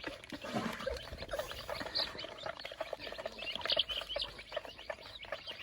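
A flock of baby chicks peeping while they feed: many short, high chirps overlapping.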